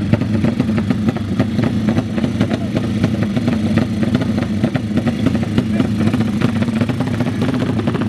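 Racing motorcycle engine running at a steady pitch with a rapid ticking crackle, without revving up or down, with people's voices around it.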